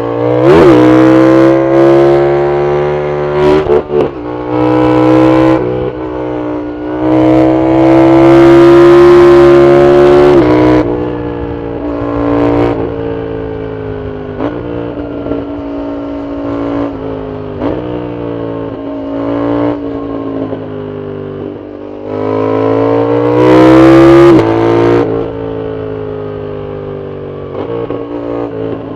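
Yamaha MT-07's parallel-twin engine through a loud full Arrow exhaust, pulling hard with the pitch climbing through quick upshifts about half a second in, again in the middle and near the end, and running more quietly at part throttle between the pulls.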